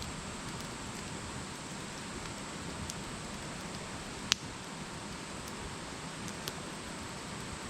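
Wood campfire burning with a steady hiss and scattered crackles, one sharp pop about four seconds in and a smaller one near the end.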